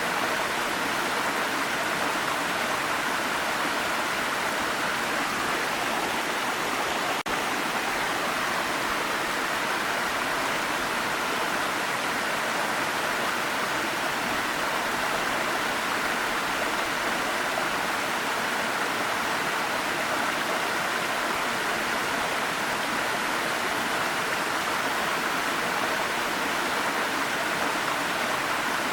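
Waterfall rushing: a steady, even noise of falling water, with a momentary dropout about seven seconds in.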